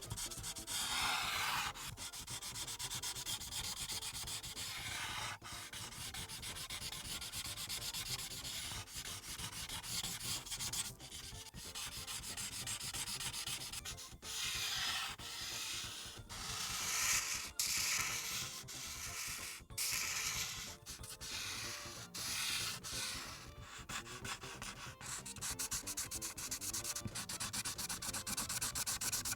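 Felt marker tip rubbing across paper in quick, repeated coloring strokes as a large area is filled in.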